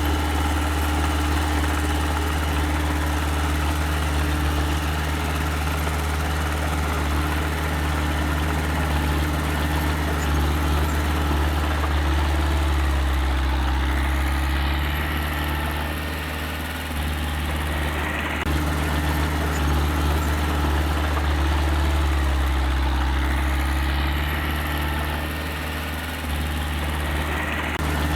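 Diesel engine of small earthmoving machinery running steadily, its low hum sagging briefly in pitch and level about halfway through and again near the end.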